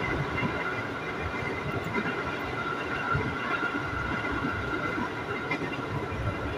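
Electric commuter train running at speed, heard from inside the carriage: a steady rumble of wheels on rail with irregular low thumps and a faint steady high-pitched whine.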